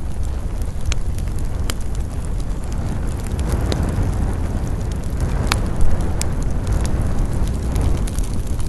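Wood campfire burning with a steady low rush and scattered sharp crackles and pops of the burning logs, about five of them standing out. Wind in the pines swells in the middle.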